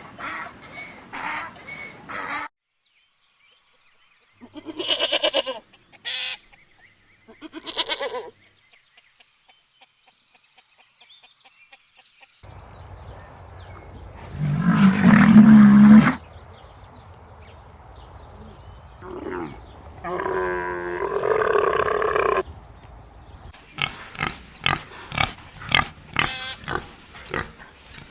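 A string of separate farm-animal calls: a few short calls at the start, three brief calls a few seconds in, a loud low call about halfway, another call a little later, then a quick run of short grunts near the end.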